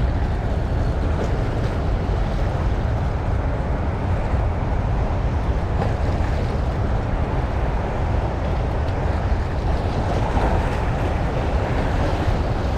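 Steady rush of water from the dam's flood gates, with wind rumbling on the microphone.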